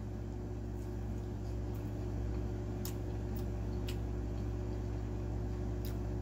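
Chewing a bite of sauced boneless chicken wing, with several faint mouth clicks spread through it, over a steady low hum.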